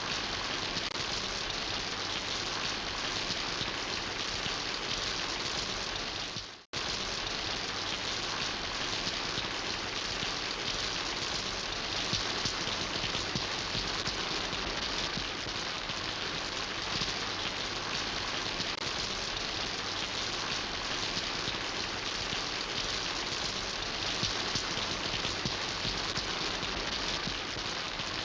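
Steady, dense rain hiss. About six and a half seconds in it fades out briefly and cuts straight back in.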